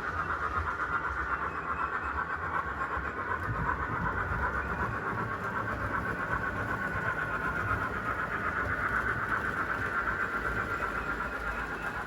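Model railway train running steadily along the layout's track, its small electric motor giving a constant high whine over a low rattling rumble from the wheels on the rails.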